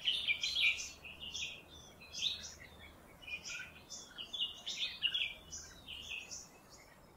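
Small birds chirping: a busy run of short, high chirps and twitters, one after another, over a faint low hum.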